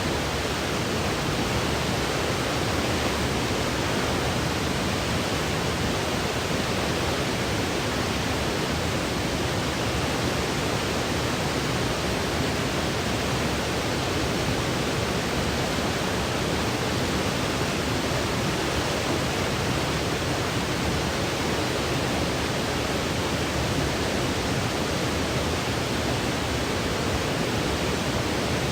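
Steady electronic white noise for sleep: an even, unchanging hiss with no rhythm or breaks.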